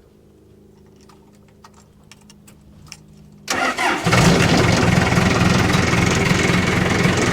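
Case 550G dozer's diesel engine starting up: a few faint clicks, then about halfway through it fires suddenly and settles into a loud, steady run.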